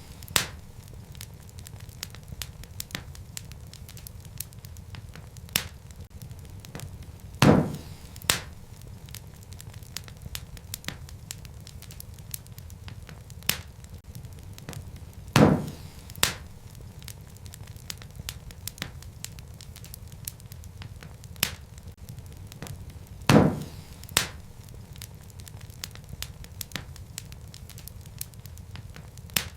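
Wood fire crackling in a fireplace: a steady low rumble of flames under frequent small crackles. Loud pops come in pairs, about every eight seconds.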